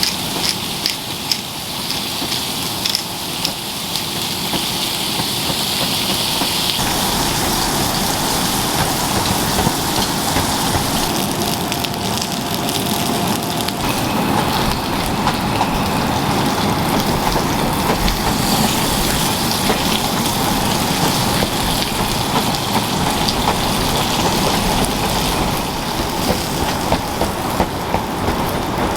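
Steady rain falling, with individual drops tapping close by.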